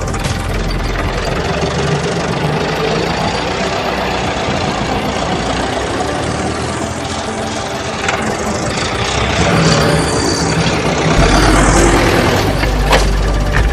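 Tractor engine running steadily, with a deep low hum that fades about a second in and comes back strongly near the end.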